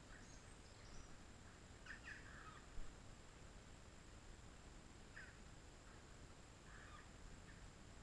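Faint, short bird calls: a few scattered chirps in small clusters over a quiet background hiss, with a brief low bump a little under three seconds in.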